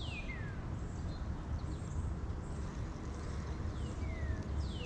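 A bird singing outdoors: high whistled notes that slide steeply downward, repeated about once a second, over a low steady rumble.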